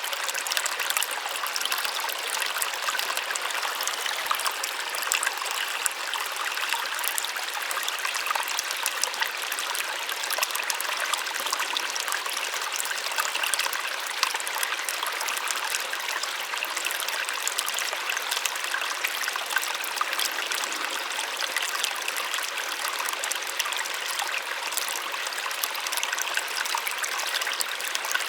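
Small waterfall: water falling and splashing in a steady, even rush with fine splashes, light and high with almost no low rumble.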